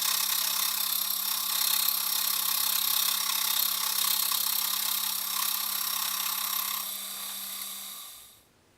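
A workshop machine tool running steadily with a constant motor hum under a dense, hissing cutting noise. The noise lightens about seven seconds in, then the machine winds down and stops near the end.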